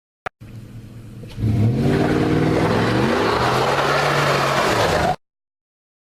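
Car engine revving: its pitch climbs and then holds, and the sound cuts off abruptly after about four seconds. A single click comes just before.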